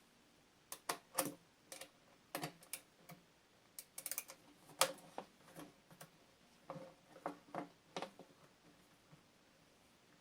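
Scattered light clicks and clacks of hand tools against the plastic shell of a Stihl BR 600 leaf blower as it is taken apart, coming at irregular intervals.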